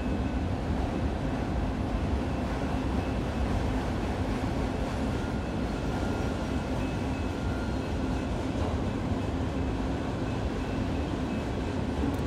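Freight train of enclosed autorack cars rolling steadily past: a continuous low rumble of wheels on rail, with a faint high steady tone above it.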